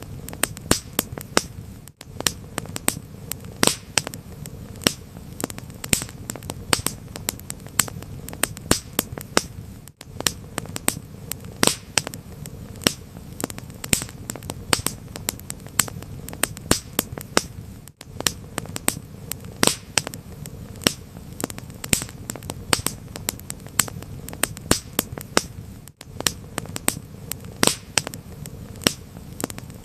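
Wood fire crackling: frequent sharp pops and snaps, several a second at uneven spacing, over a low steady rumble of the burning fire.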